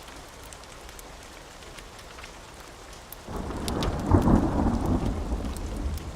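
Steady rain falling, with scattered sharp ticks. About halfway through, a thunder rumble sets in, swells to its loudest a second later and keeps rolling.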